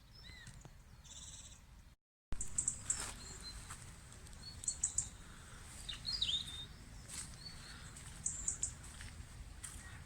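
Small birds chirping and calling in short, scattered bursts, one call swooping down in pitch about six seconds in, over a low steady outdoor rumble. The sound cuts out completely for a moment about two seconds in.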